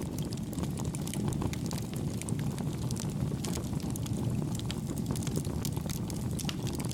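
Wood campfire burning: a steady low rumble of flames with frequent small, soft crackles and pops scattered throughout.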